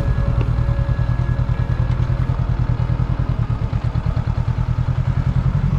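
Motorbike engine running with a steady, fast, even low pulsing.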